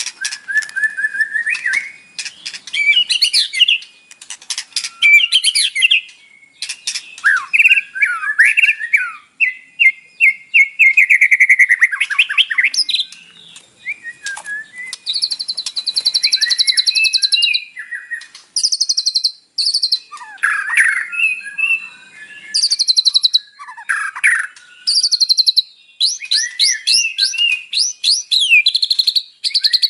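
White-rumped shama (murai batu) singing a long, varied song of short phrases: clear whistles, glides, rapid trills and strings of fast repeated high notes, with filler phrases copied from other birds.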